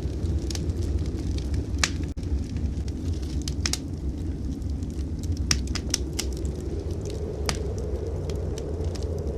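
Wood fire crackling in a fireplace, with scattered sharp pops, over a steady low rumble of blizzard wind.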